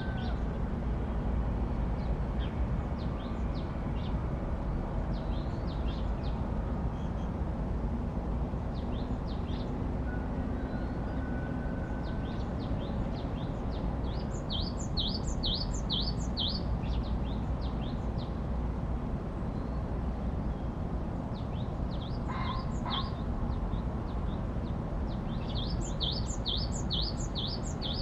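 Songbirds calling in a forest, with scattered high chirps and two quick runs of about seven sharp descending notes. A steady low rumble of ambient noise runs underneath.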